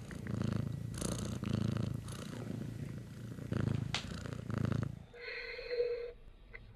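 Cat purring: a low, pulsing rumble that swells and eases in a regular rhythm, ending about five seconds in, followed by a short high-pitched squeak lasting about a second.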